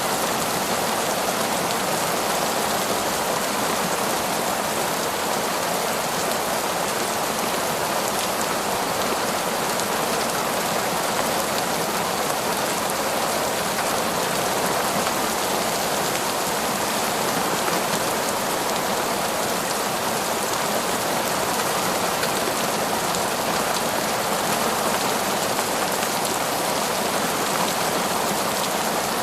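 Heavy, steady downpour of rain, an even hiss of drops falling on foliage and ground without pause.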